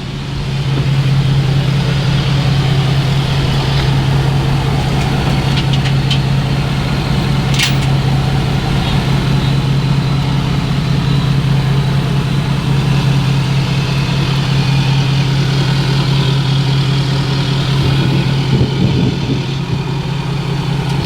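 A vehicle engine running steadily, a loud, even low drone, with a couple of faint clicks partway through.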